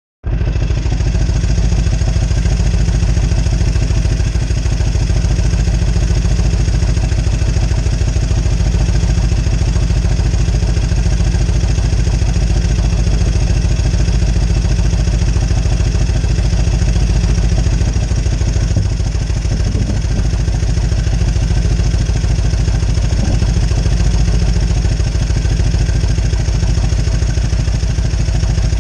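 1998 Harley-Davidson Road King Classic's fuel-injected 1340 Evolution V-twin engine running steadily, a rapid even beat of exhaust pulses, on a bike that the owner says revs up all by itself.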